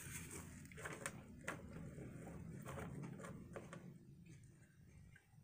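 Faint eating sounds: a few soft clicks and mouth noises from closed-mouth chewing, over a low steady room hum, quieter over the last second or so.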